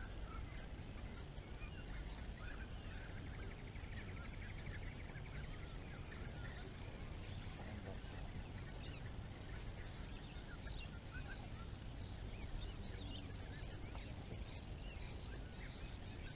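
Several birds chirping and calling, with a quick trill about three to four seconds in, over a low steady rumble.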